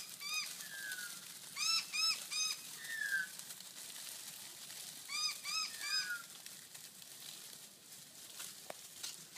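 Birds calling: runs of three or four short, ringing calls, repeated a few times, with a thin falling whistle between them.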